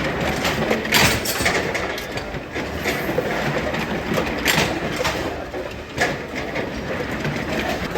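Factory machinery running with a dense metallic clatter and sharp clanks, the loudest about a second in, around four and a half seconds and at six seconds.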